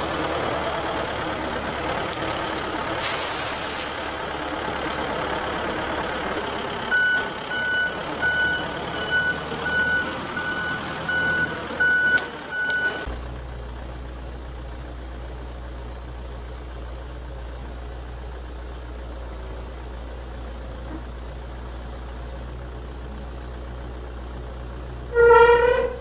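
Backhoe engine running, with its reversing alarm beeping about eight times in a row as it backs up. The sound then gives way to a lower, steady engine hum, and a short, loud pitched tone sounds near the end.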